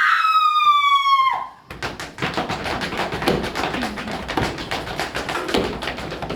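A high, whistle-like tone slides slowly downward and cuts off about a second and a half in. It is followed by a dense, continuous patter of many quick taps and clicks, with a few louder knocks among them, as in a performed soundscape piece.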